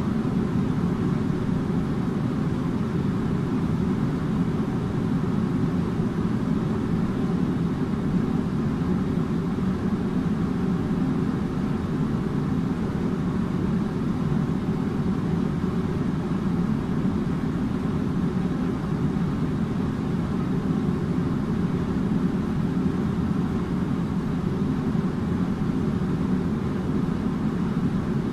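Air conditioner running steadily: an even, unchanging low hum and rush of air.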